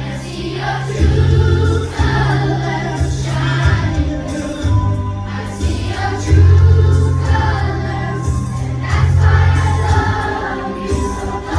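A choir of fifth-grade children singing a song over musical accompaniment with a strong bass line that changes note every second or two.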